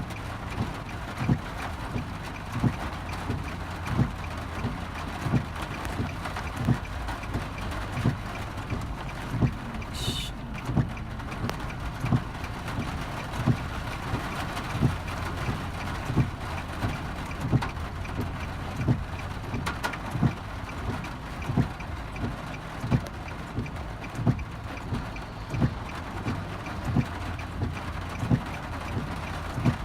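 Torrential rain heard from inside a car: a steady rain hiss over the low hum of the car, with regular thumps about three every two seconds from the windscreen wipers running fast. A single sharp click about ten seconds in.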